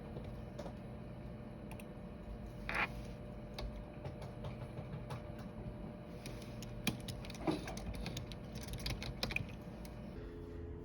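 Typing on a keyboard: scattered key clicks, sparse at first, then a quicker run of taps in the second half.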